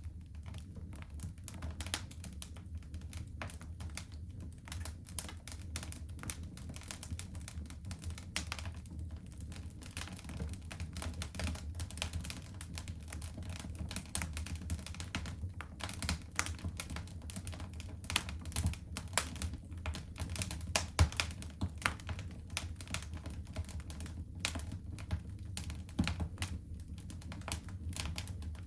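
Wood fire crackling in a fireplace: dense, irregular snaps and pops over a steady low rumble, with one sharper pop about two-thirds of the way through.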